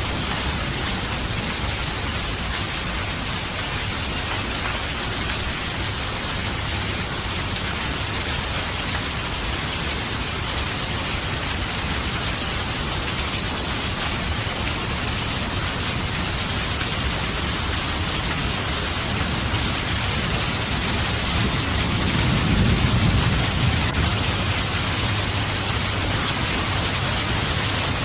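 Steady rain falling, an even hiss, with a low rumble of thunder swelling and fading about three quarters of the way through.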